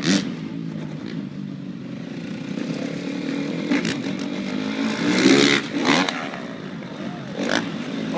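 Stunt motorcycle engine running, revved up hard about five seconds in, with a few short sharp clattering knocks along the way.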